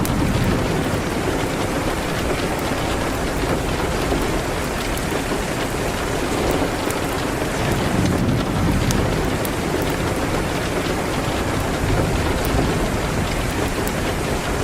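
Steady rain hitting a window, with low rumbles swelling near the start and again about eight seconds in, and scattered sharp ticks through it.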